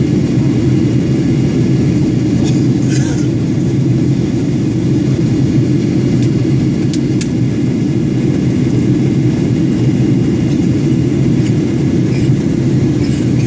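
Steady low cabin drone inside a Boeing 737-800 in flight, from its CFM56 turbofan engines and the airflow over the fuselage, with a few faint clicks about three and seven seconds in.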